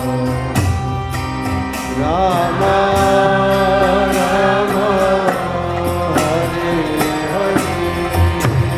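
Kirtan music: devotional chanting of a mantra over sustained instrumental tones, kept in time by regular percussion strokes.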